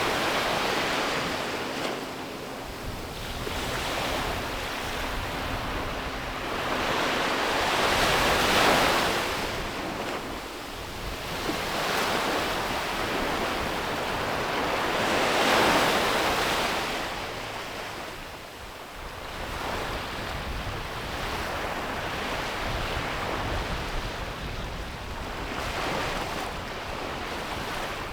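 Sea waves breaking on a beach and washing back, the surf noise swelling and fading as each wave comes in, with a loud break every seven seconds or so.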